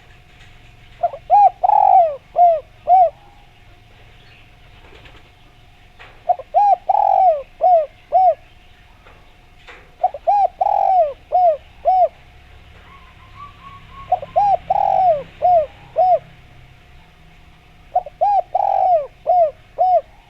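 Spotted dove (derkuku) cooing: five phrases of about five notes each, one starting roughly every four seconds. A faint steady tone runs underneath.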